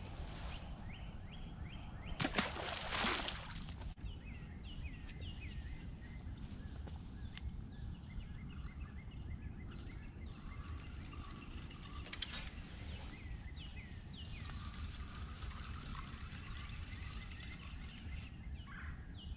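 Birds calling over and over in short descending chirps, over a steady low rumble of wind and river. About two seconds in there is a brief loud rush of noise.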